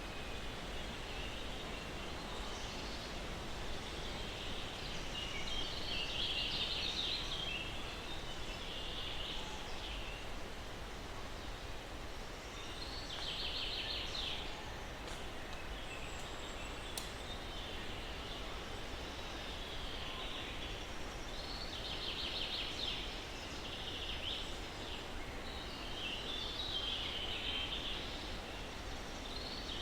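Short trilled bird songs, recurring every several seconds, over a steady hiss of breeze through pine trees.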